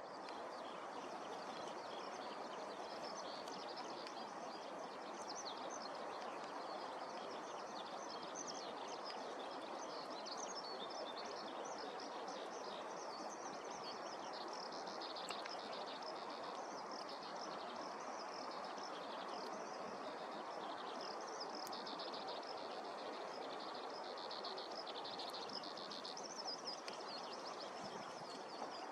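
Small birds chirping and twittering continuously in a high-pitched chorus, busiest from about halfway through, over a steady outdoor background noise.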